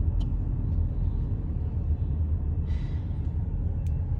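Steady low rumble of a car driving slowly, heard from inside the cabin, with a brief soft hiss about three seconds in.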